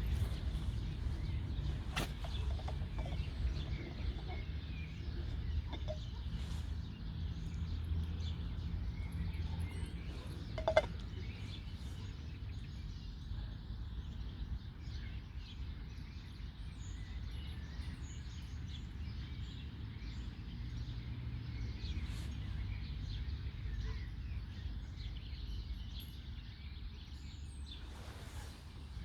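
Birds singing in trees: scattered faint chirps over a steady low background rumble, with a single sharp knock about eleven seconds in.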